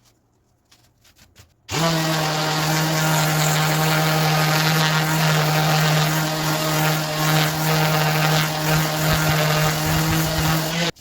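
Electric power tool motor starting about two seconds in, running at a steady high speed with an even whirr, then shutting off abruptly near the end.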